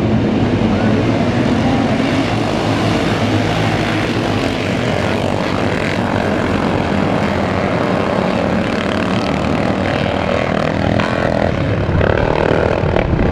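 Several motocross bikes running hard around the track together, a loud, continuous engine noise with pitches rising and falling as riders open and close the throttle.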